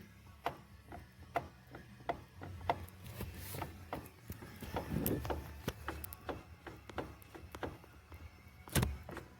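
Steering column of a Mitsubishi L200 Triton clicking as the steering is turned: a string of sharp, irregular clicks and creaks, with one louder knock near the end. The mechanic suspects a worn column bearing or the steering joints lower down.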